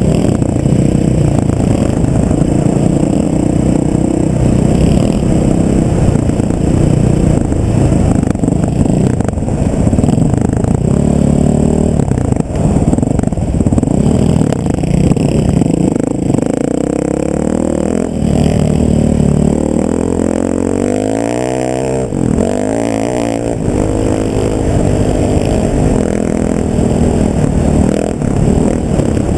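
A motor vehicle's engine running steadily under way, with heavy low rumble. Its pitch rises and falls a few times about two-thirds of the way through as the revs change.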